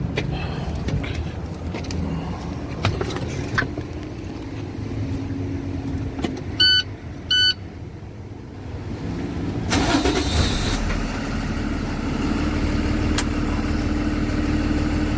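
Two short electronic beeps, then the rented work truck's engine cranks and catches about ten seconds in and settles into a steady idle.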